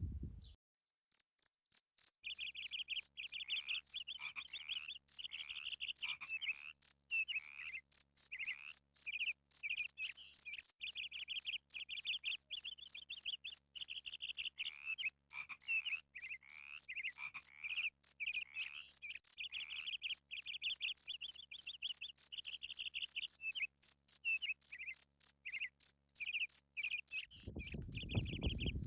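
Insects calling: a steady, high-pitched pulsing trill that starts about a second in, over a lower rasping chorus that comes and goes in short spells.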